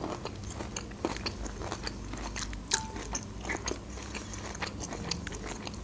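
Close-miked chewing and wet mouth clicks of a person eating, irregular and steady. A sharper click comes about two and a half seconds in.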